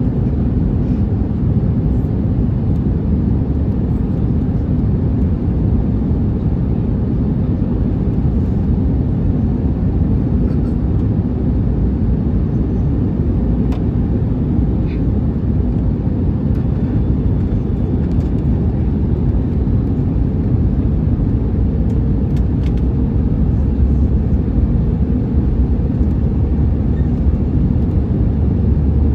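Steady low rumble of engine and airflow noise inside an Airbus A321neo airliner's cabin, with a few faint clicks midway.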